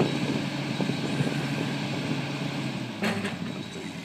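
Crane engine running steadily under load while lifting a sailboat, its pitch dropping slightly about three seconds in.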